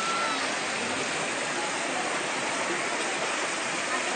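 Floodwater from monsoon rains rushing through the camp as a steady, even hiss of running water.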